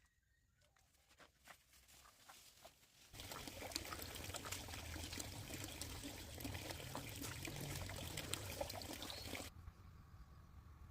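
Water pouring steadily for about six seconds, starting about three seconds in and cutting off suddenly, after a few faint clicks.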